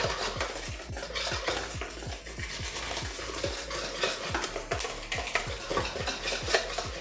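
Wire whisk stirring chocolate cake batter in a bowl, a busy scraping and clinking, over background music with a steady beat.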